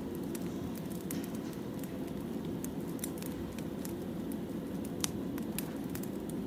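Firewood burning: a steady low rumble of flames with scattered crackles and pops, one sharper pop about five seconds in.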